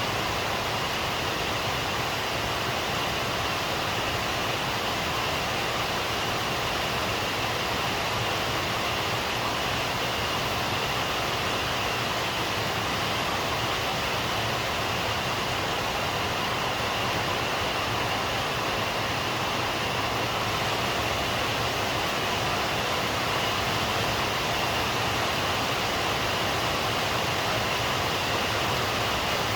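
Steady rain falling, a constant even rush with no distinct drops or thunder.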